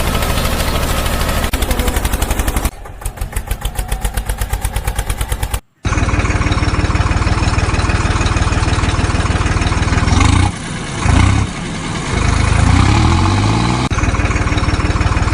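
Engine running with a fast, dense rattle. It drops to a quieter, slower pulsing, cuts out abruptly about six seconds in, then comes back loud, with its pitch sweeping up and down a few times near the end.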